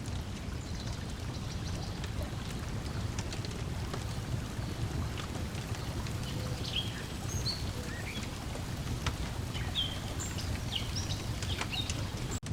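Layered lakeside ambience: a steady low wash of waves lapping, a wood fire crackling with scattered pops, and birds chirping, mostly in the second half.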